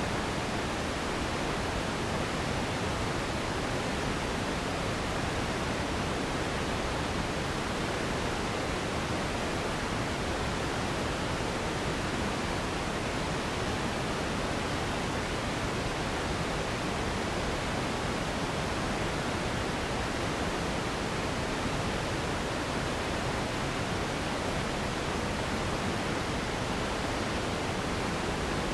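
Steady, even noise made for sleep and relaxation, an unbroken hiss with more weight in the low end than the top, with no change throughout.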